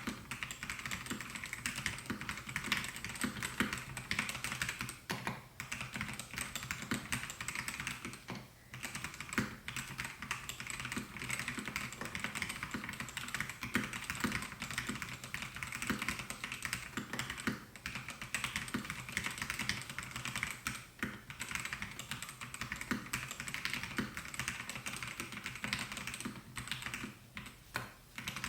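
Continuous fast typing on a Melgeek Mojo68 mechanical keyboard with white Pro switches: a dense run of key clacks, broken by a few short pauses.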